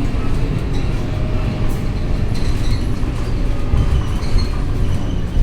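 Scania K230UB city bus running, a steady low engine and road rumble with light clinks and rattles over it.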